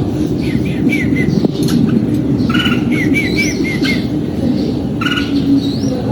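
Red-whiskered bulbul singing: quick runs of short chirped notes, a rising whistled note, and harsher buzzy calls between them, over a steady low hum.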